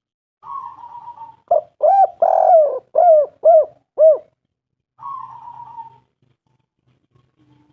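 Spotted dove calling: a purring, rolling note, then a run of about six short arched coos, then another purring note about five seconds in.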